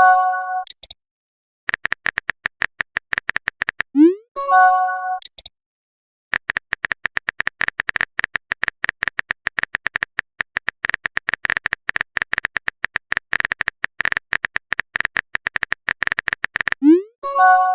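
Rapid, even typing clicks of a chat-app sound effect. About four seconds in they stop for a short rising swoosh and a bright chime of a few notes, the sound of a message being sent. After a short gap the typing runs on for about ten seconds, and the swoosh and chime come again near the end.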